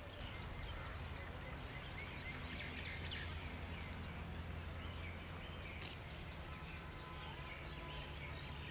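Birds chirping in short, scattered calls, thickest in the first three seconds and again about six seconds in, over a steady low outdoor rumble.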